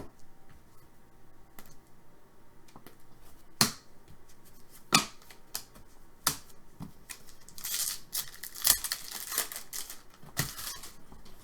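Trading cards being handled and flipped through a stack. There are several separate sharp card snaps, and a longer run of sliding, rustling card noise about eight seconds in.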